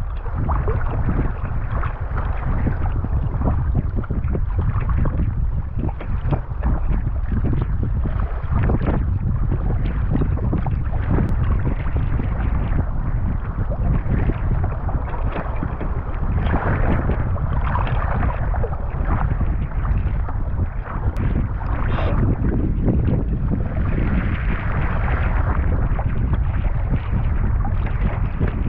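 Strong wind buffeting the microphone in a heavy low rumble, over rough water sloshing and splashing around a kayak in waves that swell and ebb.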